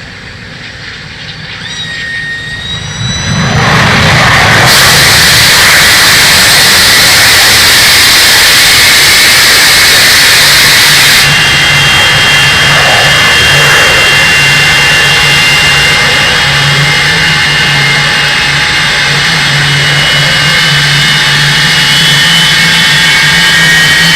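Rolls-Royce Avon turbojet of an English Electric Lightning, being run for the first time in about 30 years, spooling up. A rising whine about two seconds in gives way to a loud, steady jet roar, and after about eleven seconds high steady whine tones sound over the roar.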